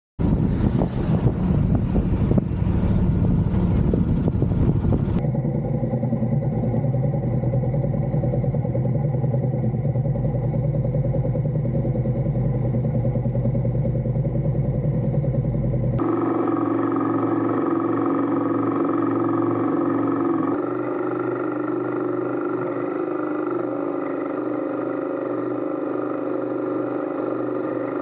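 Motorcycle engine running while riding, a steady engine note with road and wind noise. The sound changes abruptly about 5, 16 and 20 seconds in, as where separate riding clips are joined.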